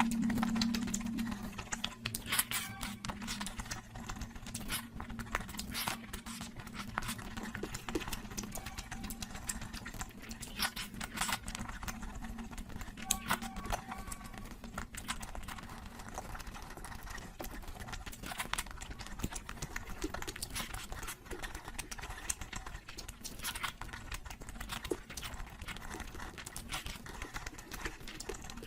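Close-miked eating sounds: irregular wet clicks and smacks of chewing.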